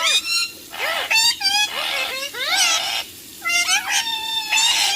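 Pet parrot calling: a run of high, whining calls that bend in pitch, some sliding upward, in about four bursts with short pauses between.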